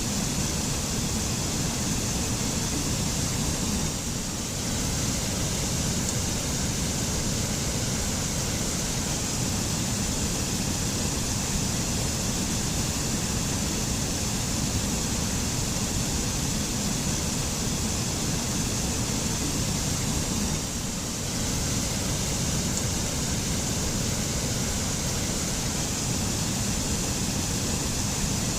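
Mountain waterfall in a forest: a steady, full rush of falling water, with two slight brief dips in level.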